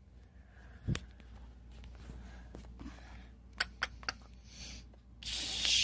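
Plastic toys being handled on a carpet: a sharp click about a second in, a quick run of light clicks and taps a little later, then about a second of rushing hiss near the end.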